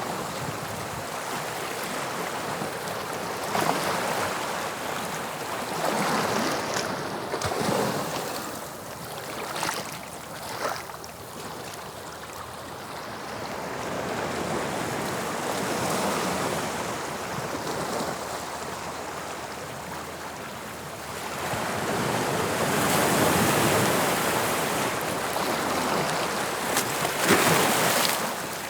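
Sea waves breaking and washing on the shore, a steady hiss of surf that swells and eases every few seconds, at its loudest in the last quarter.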